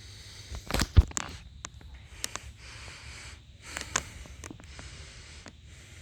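A kitten breathing softly close to the microphone, with a sharp knock about a second in and a few scattered clicks.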